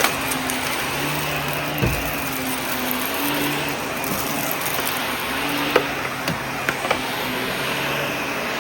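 Vacuum cleaner running steadily, its motor hum rising and falling in pitch over and over, with a few sharp clicks about two seconds in and again near six to seven seconds in.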